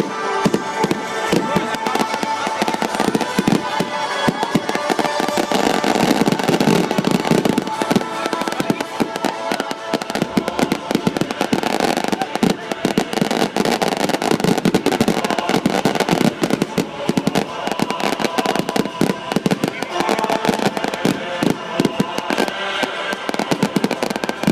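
Fireworks crackling and popping in a rapid, unbroken string of sharp bangs, many a second, with music and voices underneath.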